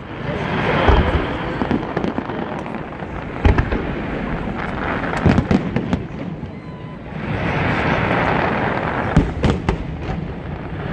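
Aerial fireworks shells bursting overhead: several loud booms a few seconds apart, with dense noise between them.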